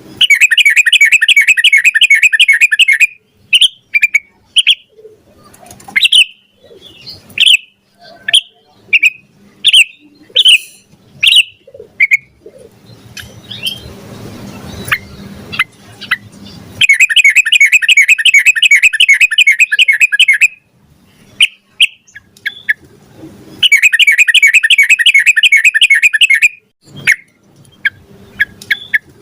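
Yellow-vented bulbul (trucukan) singing: three long runs of fast repeated notes, one at the start and two in the second half, with short separate chirps between them. There is a stretch of low hiss in the middle.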